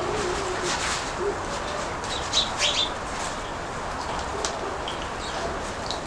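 Pigeons cooing in low, wavering notes, with a few short high chirps about two and a half seconds in, over a steady rushing background noise.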